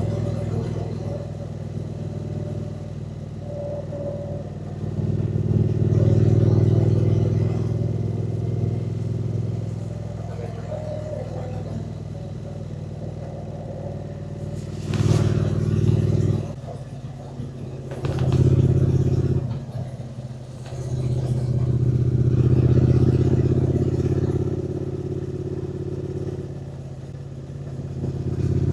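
Triumph Speed Twin 900's parallel-twin engine under way, swelling under throttle and easing off several times, with two brief sudden drops partway through, as at a gear change or the throttle being shut.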